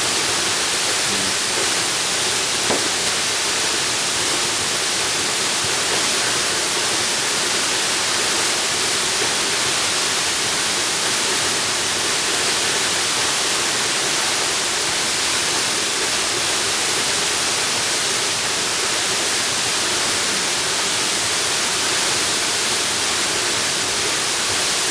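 Waterfall rushing steadily: a dense, even hiss of falling water that stays the same throughout.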